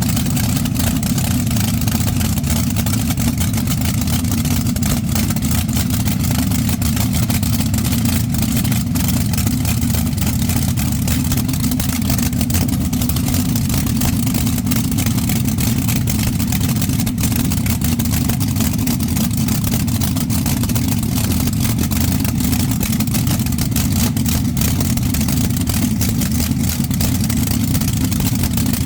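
Twin 392 Hemi V8 engines running steadily at a low, even speed, warming up after a cold start on pump gas.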